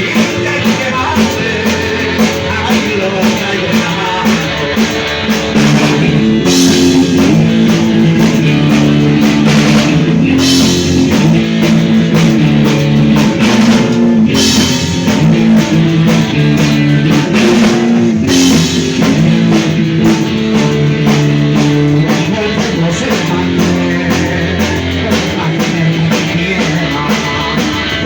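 Live rock band playing: electric guitars, bass and a drum kit, with several cymbal crashes. The band gets louder about five seconds in.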